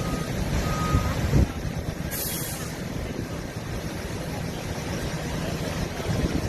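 Fire apparatus's diesel engine rumbling steadily, with a couple of short beeps in the first second and a short hiss of air brakes being released about two seconds in.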